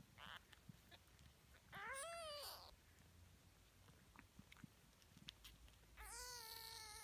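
Siamese kittens mewing: two high calls, one about two seconds in that rises and falls, and a longer, steadier one near the end.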